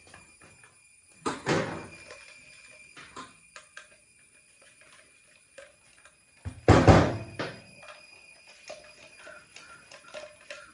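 Small clicks and knocks of a screwdriver and a plastic motorcycle tail-lamp housing being handled while the reflector's rusted screws are undone. There are two louder clatters, one about a second in and a bigger one near seven seconds.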